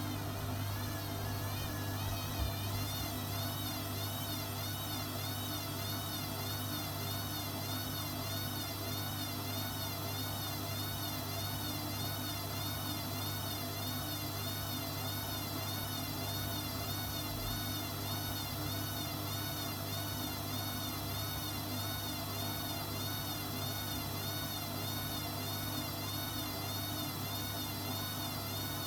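Hoover WDYNS654D washer-dryer running, a steady hum under a high motor whine that wavers up and down in pitch about twice a second.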